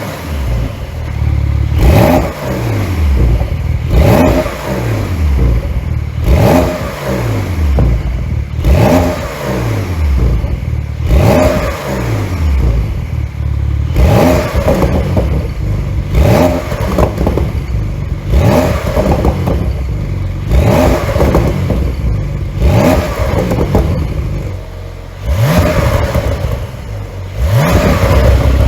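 2021 Porsche 911 Carrera 4S twin-turbo flat-six revved again and again through an exhaust with its flaps held fully open by an ECU tune: about a dozen quick blips, one every two seconds or so, each rising sharply and falling back, with pops and crackles as the revs drop. Near the end it settles into a steadier, loud rumble.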